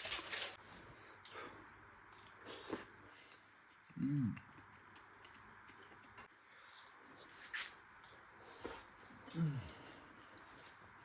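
Quiet background with a steady high-pitched whine and a few light clicks, broken twice, about four and nine seconds in, by a short low voice-like hum that rises then falls.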